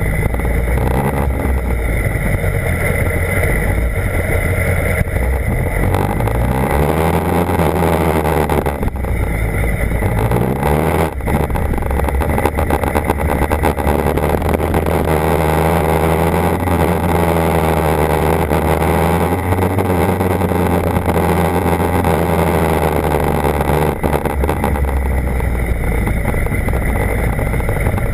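BMW HP4's inline-four engine running as the bike is ridden, its pitch climbing through a couple of gear changes about a quarter of the way in, then holding a steady note before easing off near the end. A steady rushing noise runs underneath.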